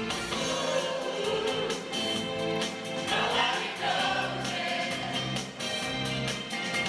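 Choir singing a song with band accompaniment and a steady beat.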